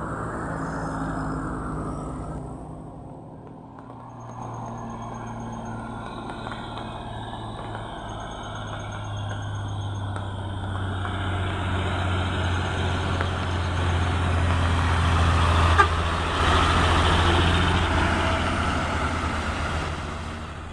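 Heavy truck's diesel engine labouring up a steep climb, a steady low hum that grows louder as the truck draws nearer, with one sharp click about three-quarters of the way through.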